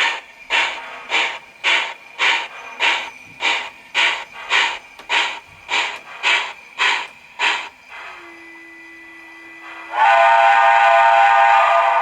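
The digital sound system of an HO-scale MTH New York Central 4-6-4 Hudson steam locomotive model: steam exhaust chuffing at an even beat of just under two a second, stopping about eight seconds in. A steady low hum follows, then a chime steam whistle sounds loudly for about two seconds near the end.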